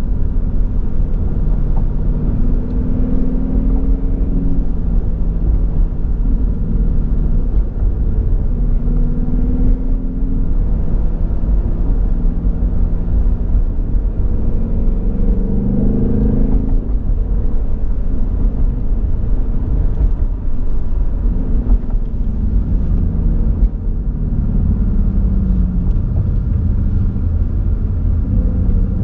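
2018 Ford Mustang GT's 5.0-litre V8 heard from inside the cabin while driving, a steady low rumble mixed with road noise. The engine pitch rises and falls several times, climbing highest about halfway through before dropping away.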